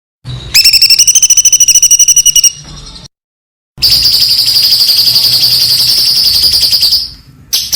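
A songbird giving rapid, high-pitched trills, the fast "shot" phrases prized in contest-bird tutor recordings: a trill of about two seconds, a short silence, then a longer trill of about three seconds.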